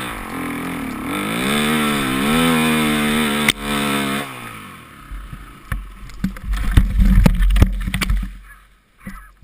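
Dirt bike engine revving up and down in surges, with a sharp click about three and a half seconds in. The engine note then falls away into heavy low rumbling with a run of knocks and thuds.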